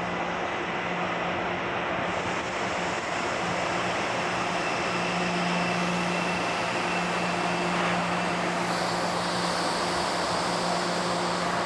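Electric metro train running, a steady rumble with a low electric hum.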